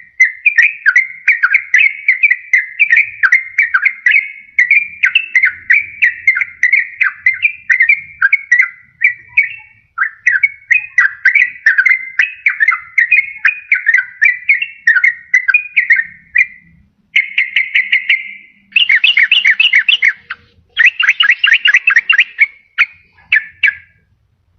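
Yellow-vented bulbul (trucukan) singing: a long run of quick, bubbly whistled phrases, then a few shorter, denser bursts of chattering notes in the last third.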